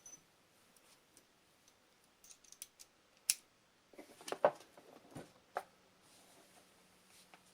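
Irregular sharp metallic clicks and knocks of a hand tool working the mounting bolts on a Stihl BR 600 leaf blower's case, trying to break them loose. The clicks come a few at a time, with the loudest cluster in the middle.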